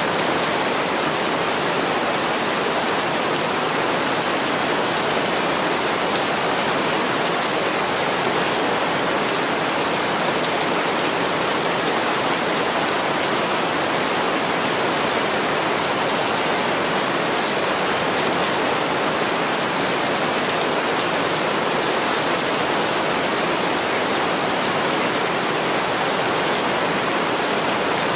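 Heavy rain pouring steadily on a window, a dense even hiss with no single drops or crackles standing out.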